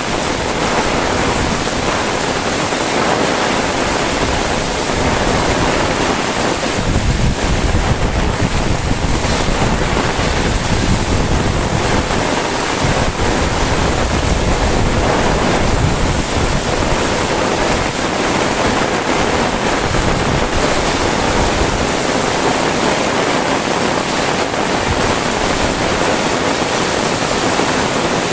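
Heavy rain falling steadily as a dense hiss, with wind buffeting the microphone as a low rumble from about 7 to 20 seconds in.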